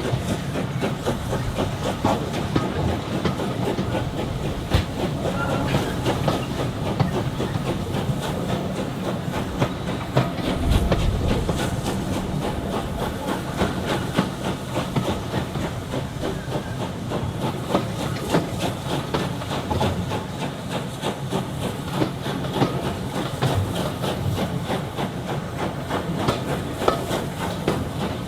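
A railway train running along the track, with a steady rumble and rapid clicking from the wheels on the rails.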